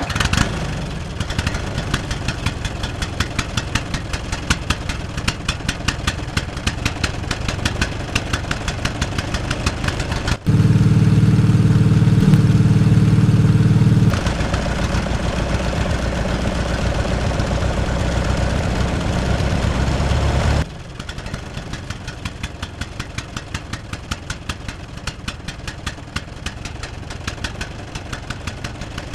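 Small engine of a miniature DIY tractor running with a rapid, even ticking beat. The sound shifts abruptly a few times and is louder and deeper for a few seconds about ten seconds in.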